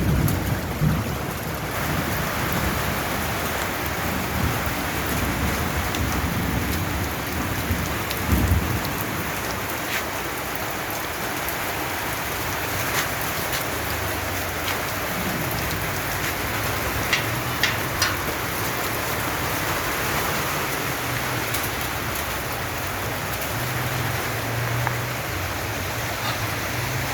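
Heavy rain falling steadily in a thunderstorm. Thunder rumbles in the first seconds and again more loudly about eight seconds in.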